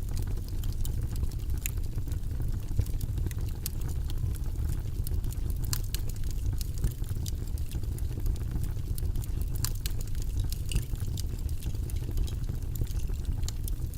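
Steady low, rumbling white-noise background track, with scattered light clicks throughout.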